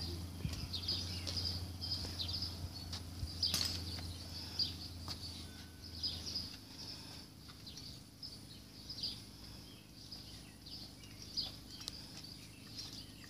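Small birds chirping over and over in short high notes, with a low steady hum under them that stops about halfway through and a single sharp click a few seconds in.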